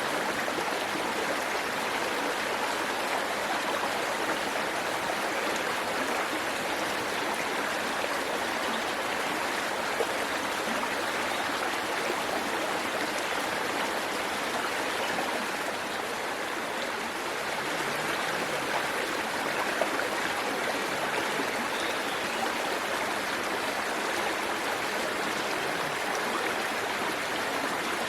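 A waterfall's water rushing and splashing steadily, a constant hiss with small splashes and drips in it.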